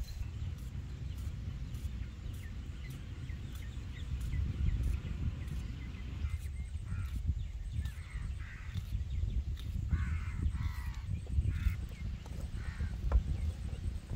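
Birds cawing several times in the second half, over a low steady rumble, with a sharp knock near the end.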